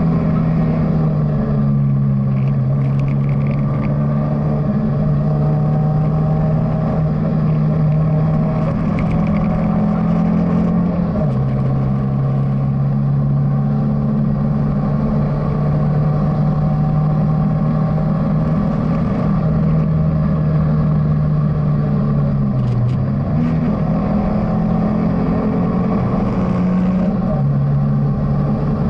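BMW E30 316i's four-cylinder engine heard from inside the rally car's cabin, running hard on a stage. Its note holds steady, then drops sharply in pitch near the middle and dips again a few seconds before the end, with tyre and road noise underneath.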